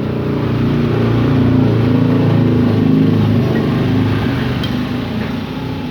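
A motor vehicle engine running, growing louder to a peak about two to three seconds in and then fading away.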